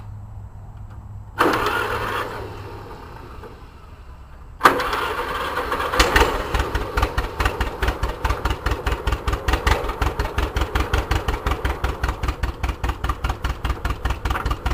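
Homemade tractor's engine being started: a burst of cranking noise a second or so in that fades away, then the engine catches with a sudden loud start and settles into an even idle, about six or seven pulses a second.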